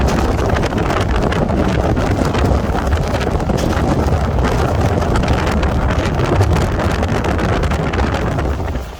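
Wind buffeting the microphone on a moving passenger train, over the train's steady running rumble. The level drops suddenly right at the end.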